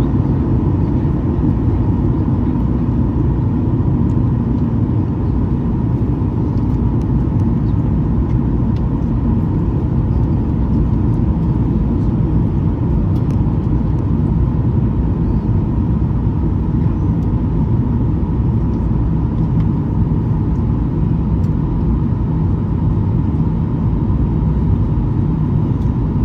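Boeing 737-800 cabin noise from a seat beside the wing engine: a steady low rumble of CFM56-7B engine and airflow noise in cruise, with a thin steady hum above it.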